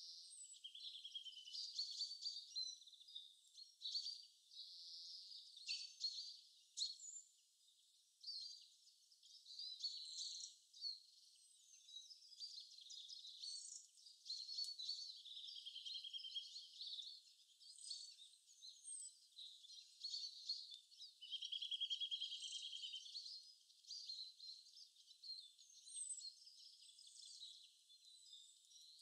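Faint high-pitched birdsong: many short chirps and quick repeated trills, with nothing in the low range.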